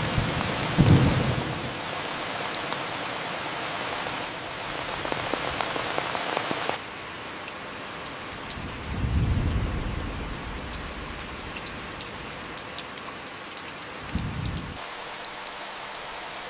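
Steady rain falling, with low rolls of distant thunder: a short one about a second in, a longer rumble swelling and fading around nine seconds, and a brief one near the end. The rain's hiss drops to a lighter patter suddenly about seven seconds in.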